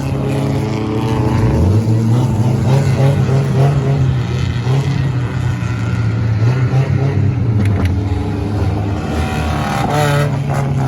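Stock car engines running hard on the track, the engine pitch climbing about a second and a half in and then wavering up and down as the cars accelerate and lift.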